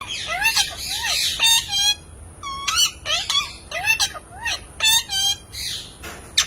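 Pet parrot giving a quick run of short whistled chirps, each sliding up and down in pitch, with a brief pause about two seconds in. A sharp click comes near the end.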